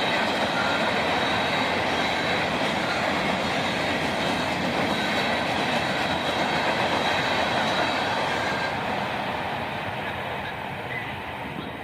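A passing train running on the rails close by, a steady rushing rumble with faint high steady tones, which fades away over the last few seconds.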